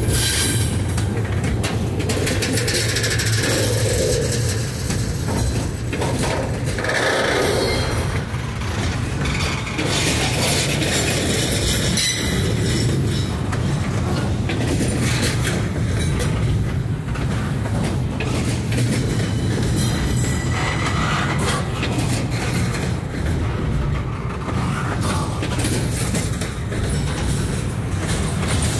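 Freight train rolling past: a steady rumble of steel wheels on rail, with frequent clicks and clunks from the wheels and cars, and a faint high wheel squeal now and then.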